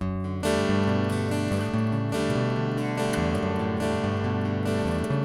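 Acoustic guitar playing a song's instrumental introduction, strummed chords changing every half second or so.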